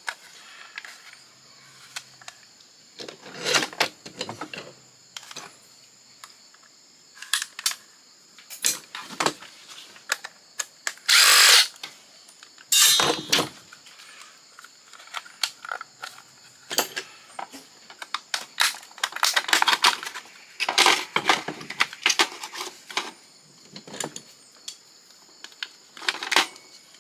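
Power drill-driver running in repeated short bursts, each a second or less, backing screws out of a fax machine's casing. The longest and loudest burst comes a little past the middle.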